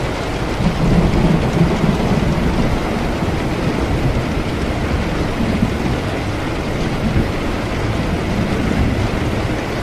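Steady rain with a low rumble of rolling thunder, strongest about a second in.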